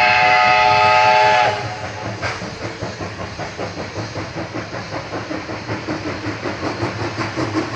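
Steam locomotive's whistle blowing loud, several tones sounding together, then cutting off about a second and a half in, followed by the even, rapid rhythmic sound of the locomotive running by.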